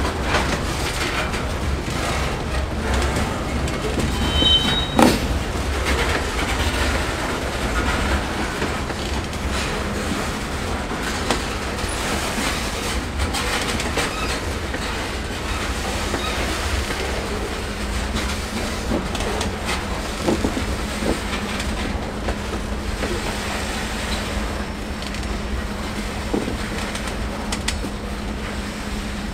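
Railroad cars of a passing train rolling by, the wheels clacking steadily over the rail joints. A brief high wheel squeal comes about four seconds in, followed by a sharp knock.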